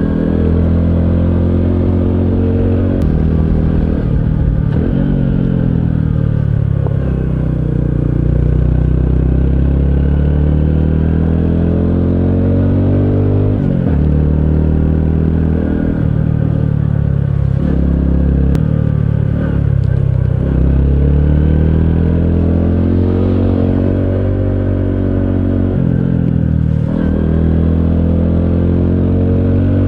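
Honda CT125 Hunter Cub's 125 cc air-cooled single-cylinder engine under way. Its pitch rises and falls with the throttle, with several sharp drops.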